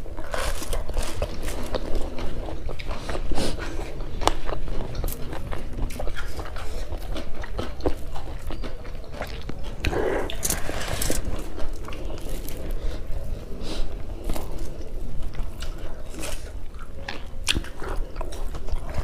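Close-miked eating sounds: chewing, biting and lip-smacking of two people eating curried beef innards and rice by hand, with many short wet clicks and a denser run of mouth noise about halfway through.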